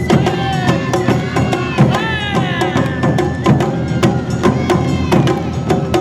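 Awa Odori festival band music: drums and a clanging hand bell strike a quick, steady beat, with a high sliding melody and voices calling over it.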